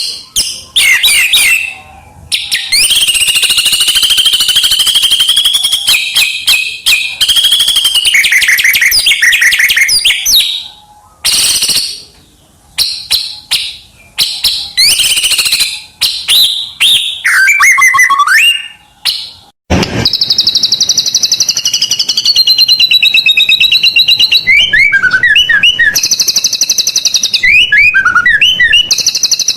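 White-rumped shama (murai batu) singing loudly in a long, varied song of clear whistled phrases, sweeping notes and fast trills. About two-thirds of the way through there is an abrupt cut, after which a rapid trill alternates with quick downward-slurred notes.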